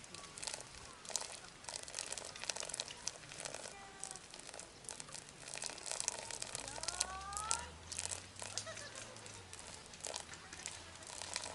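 Irregular crinkling and rustling with many small clicks, as of paper or plastic being handled. About seven seconds in there is a brief rising chirp, and a low hum runs through the second half.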